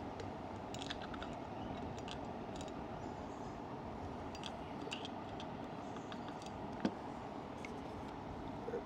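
Scattered light clicks and taps of small metal engine-brake parts and hand tools being handled, over a steady background hiss, with one sharper knock about seven seconds in.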